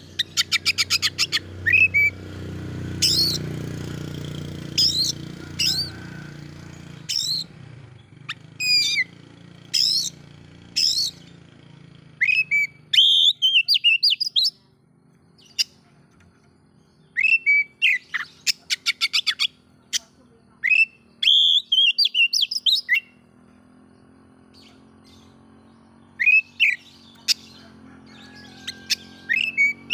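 Oriental magpie-robin (kacer) singing: loud whistled phrases with notes that glide up and down, mixed with bursts of fast chattering trills near the start and again about two-thirds of the way through, broken by short pauses. A low hum lies under the song for the first dozen seconds.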